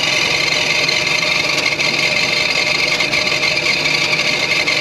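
Two-stroke 45 hp Mariner outboard motor running just after being started, with a loud, steady raspy hiss over the engine note.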